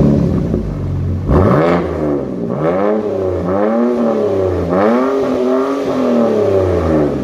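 The BMW 330xi's straight-six engine fires up with a loud flare, exhaust unmuffled because the muffler has been deleted. It is then revved about five times, each rev rising and falling in pitch over a low idle.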